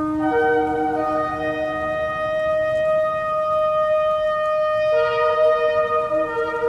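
Shofars sounding long, steady blasts that overlap, so two or three held notes sound at once. The lowest note drops out about two seconds in and comes back near the end.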